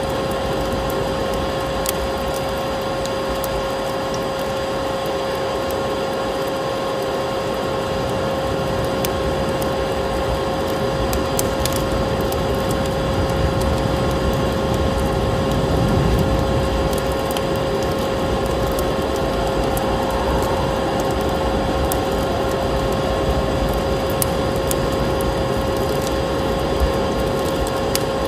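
Vacuum cleaner motor running with a steady hum, layered with the scattered crackle of a wood fire and a low rush of storm wind.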